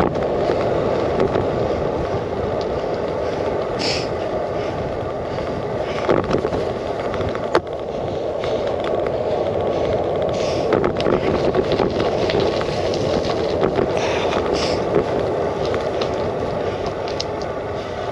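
Bicycle rolling over a rough road surface, picked up through a camera clamped to the handlebars: a steady rumble of tyre and frame vibration, with a few sharp knocks as the wheels hit bumps.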